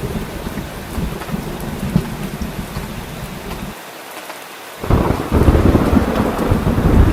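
Steady rain with a low thunder rumble. The rumble drops away for about a second near the middle, then thunder and rain come back louder about five seconds in.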